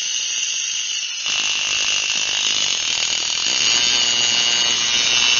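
Steady high hiss of compressed air at 40 psi, then an air compressor kicking on about a second in and running with a rattling hum.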